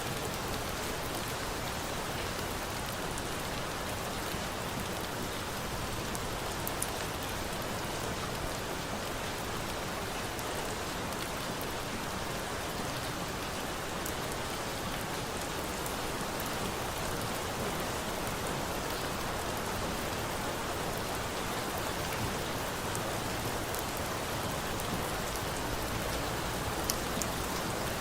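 Steady rain falling in an even, dense hiss, with a few brief sharp ticks, one about seven seconds in and a couple near the end.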